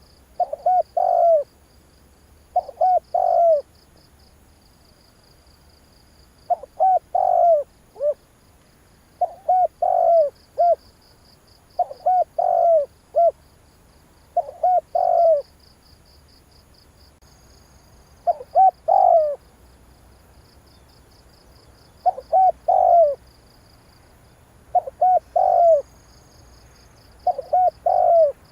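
Spotted dove cooing: a short phrase of three or four low coos, repeated about every two to three seconds. A faint, rapid, high-pitched chirping runs steadily underneath.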